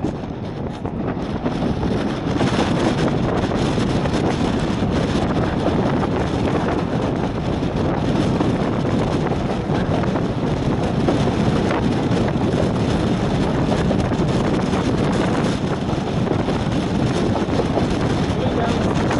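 Steady rumble of a railway carriage running along the track, with wind buffeting the microphone.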